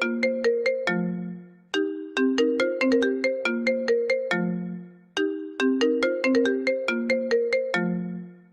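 iPhone ringtone playing: a short melody of quick struck notes that ends on a low held note, looping about every three and a half seconds.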